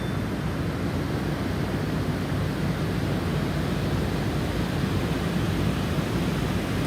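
Snowstorm wind blowing in a steady rush, with most of its weight low down and no distinct gusts or chimes standing out.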